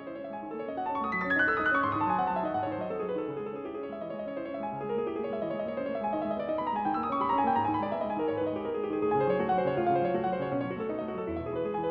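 Piano music: steady note patterns with cascading runs down the keyboard about a second in and again about seven seconds in.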